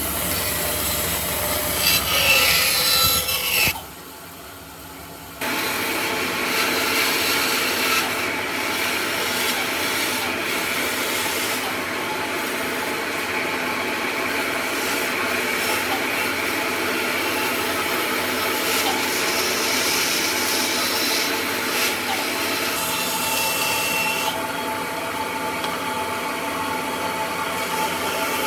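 A power tool working wood, a steady rough noise that drops away briefly about four seconds in.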